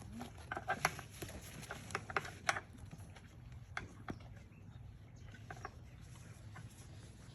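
Miniature donkeys crunching carrots: a quick cluster of sharp crunches in the first few seconds, then sparser ones.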